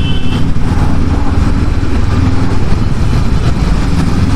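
Honda CB500X's parallel-twin engine running steadily under way, with road and wind noise. A high steady tone stops about half a second in.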